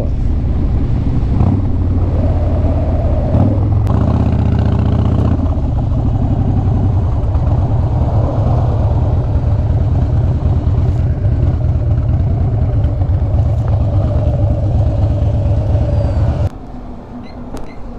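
Harley-Davidson motorcycle's V-twin engine running steadily under way. It drops away sharply about 16 seconds in.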